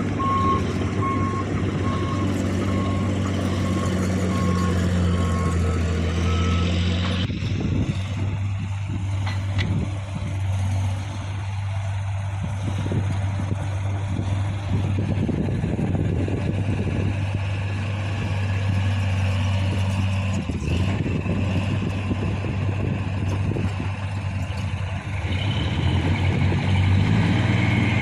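Mitsubishi Canter dump truck's diesel engine running, with its reversing alarm beeping at an even pace for the first five seconds or so before it stops. The engine keeps running on its own after that.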